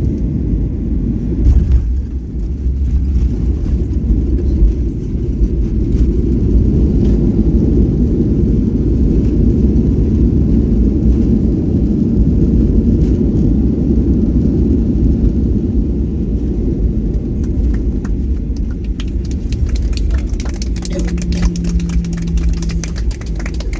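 Steady low rumble in the cabin of a Boeing 737-800 airliner during landing, with a single bump about a second and a half in. Rapid rattling clicks and a steady hum come in over the last few seconds.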